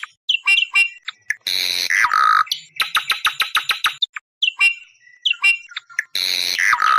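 Awar-awar bird calling, as used for luring wild birds: short whistled notes alternating with rapid, harsh rattling chatters of many quick notes. Each chatter lasts about a second, and a couple of them end in a falling note.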